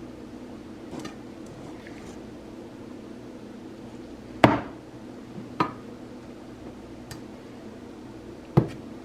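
A few sharp clinks and knocks of dishes or utensils, two of them louder, about four seconds apart, over a steady low hum.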